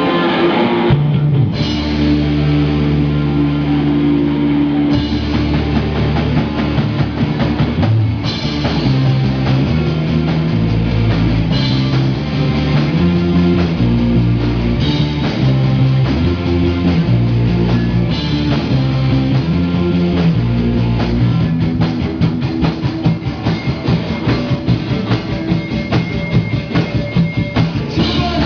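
Rock music with drum kit, bass and electric guitar.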